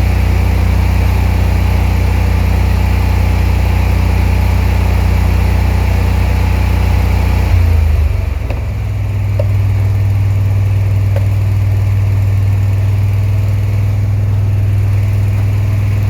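Lincoln Ranger engine-driven welder's engine running steadily, then dropping abruptly to a different, lower engine note about eight seconds in and running on steadily.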